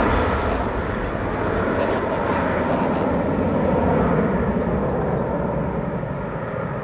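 Jet noise from a Boeing 717's twin Rolls-Royce BR715 turbofans, a broad rushing sound that slowly fades as the aircraft departs.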